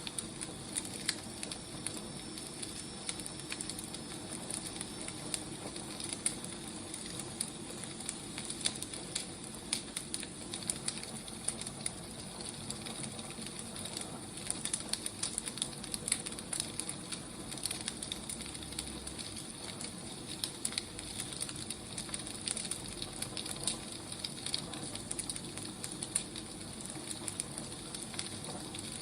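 Firewood burning, crackling with irregular sharp pops over a steady hiss.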